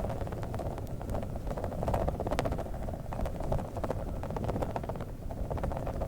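Squishy balls being squeezed and rubbed close to the microphone: a continuous crackling, squelching texture made of many small clicks, with a low handling rumble underneath.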